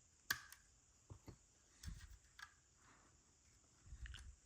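Faint, scattered clicks and taps of small plastic building bricks being handled and pressed onto a model, the sharpest about a third of a second in.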